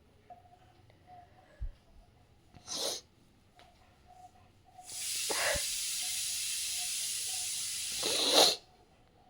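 A person shushing a dog to calm it to sleep: a short "shh" about three seconds in, then a long steady "shhh" from about five seconds in that swells just before it stops.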